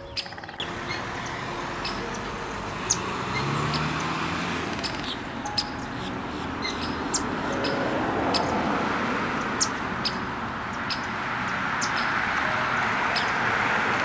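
Small birds chirping, short high calls roughly every second or two, over a steady rushing background noise.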